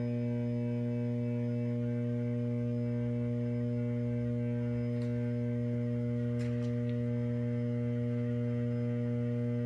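Y-phase voltage transformer in a substation transformer bay humming steadily, a deep electrical hum with a stack of higher overtones. It is reported as vibrating more than normal and making an abnormal sound.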